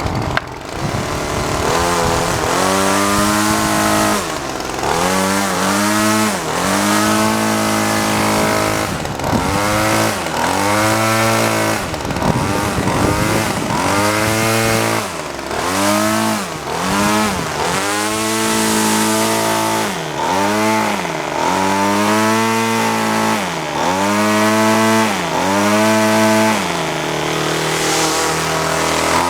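Homelite 25cc two-stroke trimmer engine running, its throttle blipped again and again so the engine revs up and drops back toward idle about every second or two.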